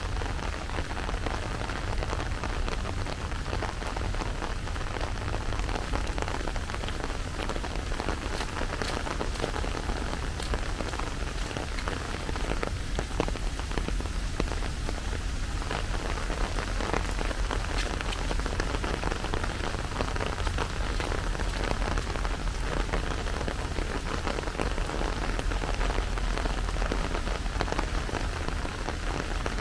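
Steady rain falling, with many small drop ticks throughout over a steady low rumble.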